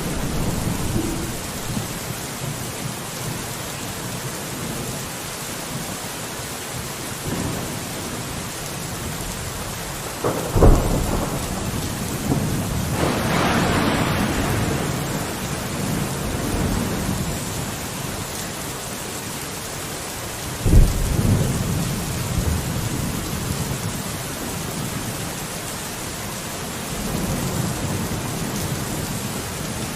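Steady rain falling on a window, with thunder rumbling underneath. Two sudden louder claps come about ten and twenty-one seconds in, and a broader swell of rain and rumble builds around thirteen to fifteen seconds in.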